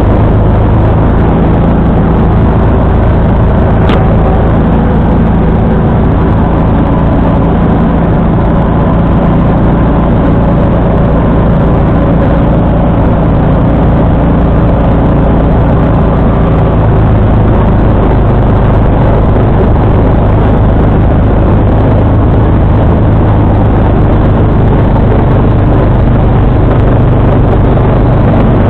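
John Deere 445 garden tractor's engine running steadily while powering a front-mounted 47-inch snowblower through snow. A single sharp click sounds about four seconds in.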